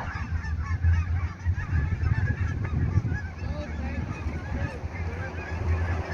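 A large flock of migrating geese flying over, many honking calls overlapping in a continuous chorus. Wind rumbles on the microphone underneath.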